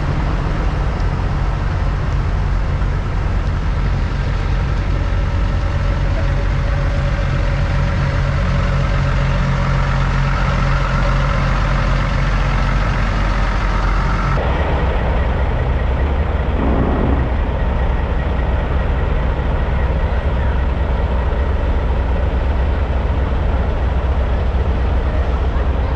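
Semi-truck diesel engines running, a loud, steady low rumble. About 14 seconds in the sound changes abruptly, and a short falling tone follows a couple of seconds later.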